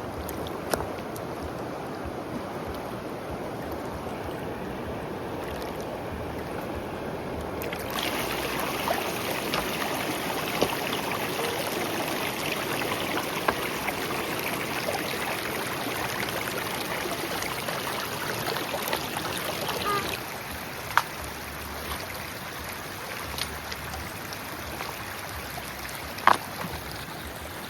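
River water running steadily. It grows louder and brighter about a third of the way in and settles back down about two-thirds through. A few sharp knocks come near the end.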